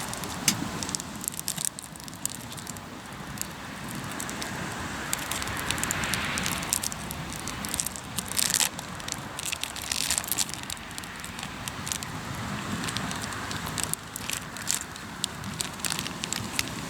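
Hardwood campfire logs burning and crackling, with many irregular sharp pops.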